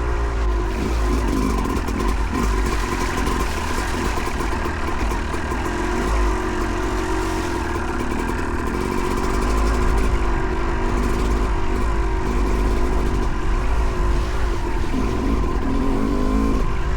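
2008 Yamaha YZ250 two-stroke dirt bike engine under way, its pitch rising and falling as the throttle is opened and closed.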